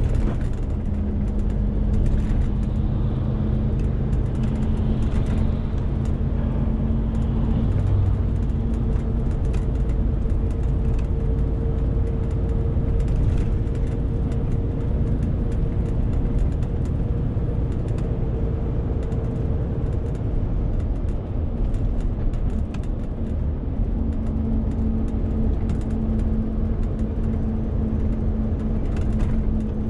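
Renault T520 truck's diesel engine running steadily while hauling a 40-tonne load, a constant drone with scattered light clicks and rattles.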